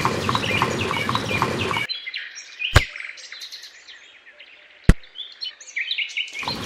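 Birds chirping with many short high calls, a denser, noisier chorus at the start and near the end. Two sharp knocks, about two seconds apart, stand out in the middle.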